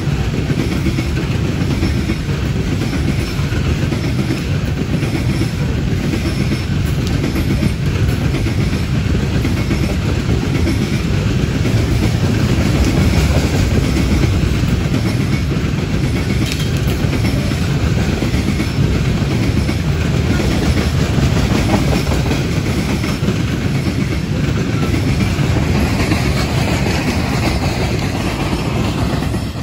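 Coal train's hopper cars rolling past on the track: a steady, unbroken rumble of steel wheels on rail.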